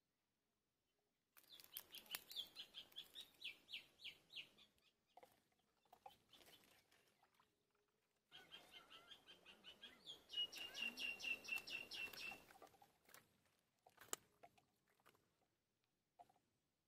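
A bird calling in two runs of rapid, high chirps, several a second, the first starting just over a second in and the second around the middle.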